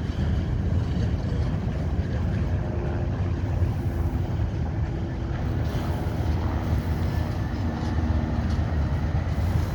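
Steady low rumble of a heavy vehicle running.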